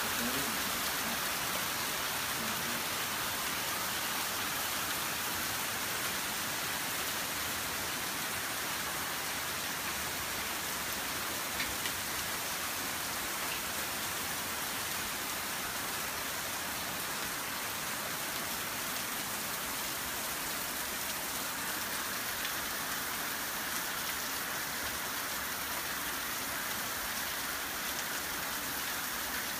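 Torrential rain pouring down in a steady, even hiss, with a single sharp tap near the middle.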